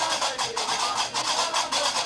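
Gnawa music: a rapid, even clacking of qraqeb iron castanets at several strokes a second, with a low pulse underneath.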